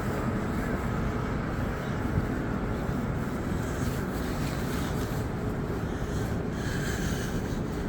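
Steady wind noise on the microphone: an even, low rumbling hiss.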